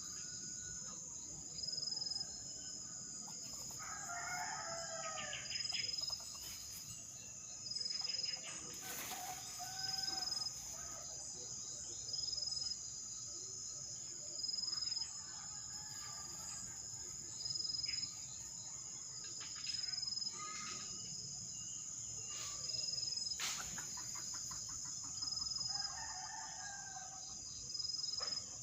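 A rooster crowing twice, once about four seconds in and again near the end, over insects whining steadily with a chirp that pulses about every two seconds.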